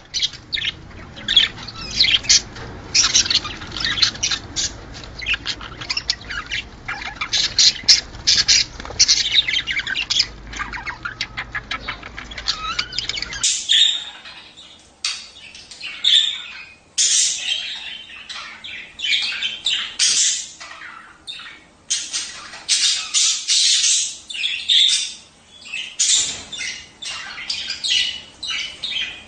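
A flock of budgerigars chattering, with rapid overlapping chirps and squawks. About halfway through, the low background rumble drops out abruptly and the calls carry on more cleanly.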